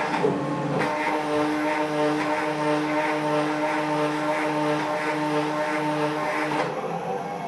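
DIY CNC machine running its motors through a gearbox: a steady whine of several tones with a regular pulse about one and a half times a second. The sound breaks up briefly just after the start and shifts to a different set of tones near the end.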